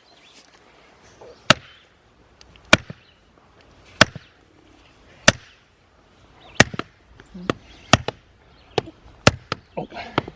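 Hammer blows on wood, about one every second and a quarter, coming quicker near the end.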